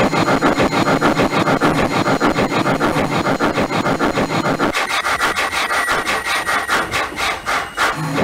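Steam chuffing from the speaker of an MTH Proto-Sound 2 model steam locomotive, a quick, even beat. About five seconds in the deep part of the sound drops away and the chuffs turn thinner, then slow toward the end, following the model slowing down.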